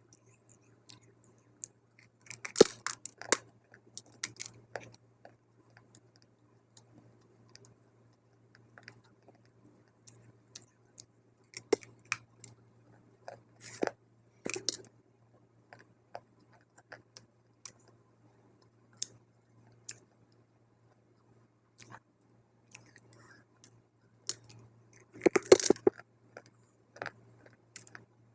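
Close-up crunching of dry multani mitti (fuller's earth clay) being bitten and chewed. It comes in several bursts of sharp crackling, the loudest near the end, with soft clicks between them over a steady low hum.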